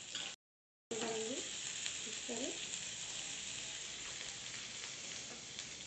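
Chopped garlic and ginger sizzling steadily in hot oil in a nonstick frying pan, being lightly sautéed and stirred with a silicone spatula. The sound cuts out completely for about half a second near the start.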